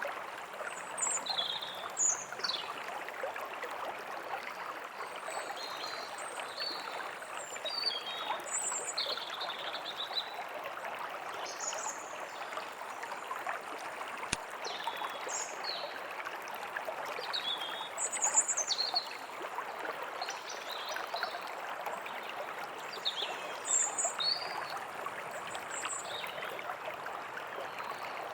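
A stream running steadily, with small birds chirping and giving short falling whistles now and then over it.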